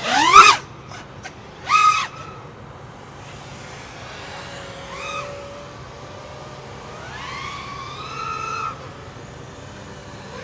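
5-inch FPV freestyle quadcopter's brushless motors and props whining. The pitch rises sharply on two loud throttle punches in the first two seconds, then the whine goes quieter, rising and falling as the quad flies.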